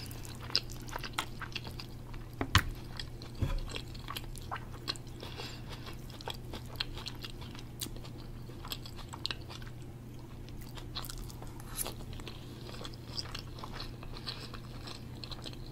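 Close-miked chewing and small wet mouth sounds of a person eating, with many small clicks and a couple of sharper ones about two and a half and three and a half seconds in, over a faint steady low hum.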